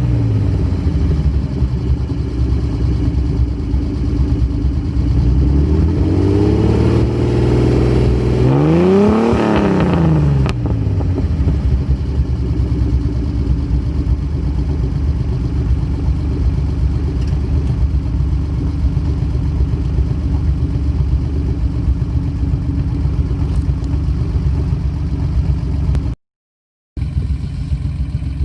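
Datsun S30Z's L-series straight-six on Solex sidedraft carburettors, idling while the carburettors are being adjusted. A few seconds in, the throttle is opened once and the revs rise and fall back, then it idles steadily. The sound cuts out for under a second near the end.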